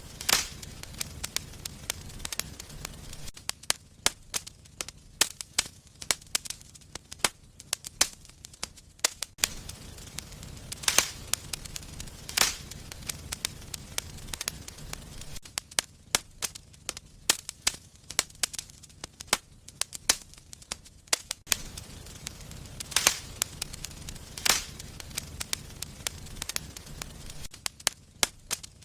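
Wood fire burning in a fireplace: a low steady hiss with frequent crackles and sharp pops, several of them louder snaps.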